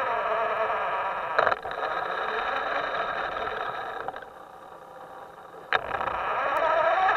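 Radio-controlled boat's electric motor whining with many overtones, its pitch sliding up and down with the throttle; it eases off about four seconds in and picks up again near the end. Two sharp clicks cut through it, a little over a second in and near the end.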